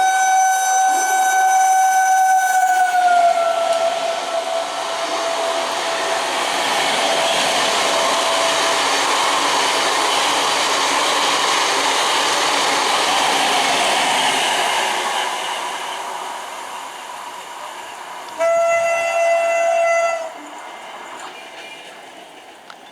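A train running through a station at speed, sounding a long horn blast whose pitch drops as it passes, then the rumble and rush of the train going by and fading away. A second, shorter horn blast sounds near the end.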